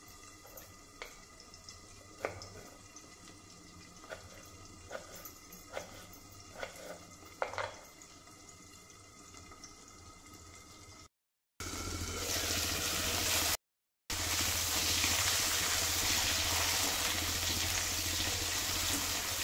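A knife slicing through peeled potatoes held in the hand: faint soft clicks, about seven over the first eight seconds. Then a steady loud sizzle of cut vegetable pieces frying in hot mustard oil in a steel kadhai, broken by a moment's silence.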